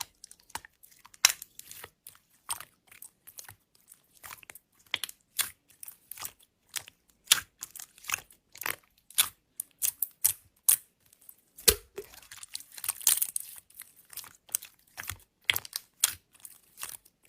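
Slime being pressed and played with by hand, giving a fast, irregular run of sticky crackles and pops.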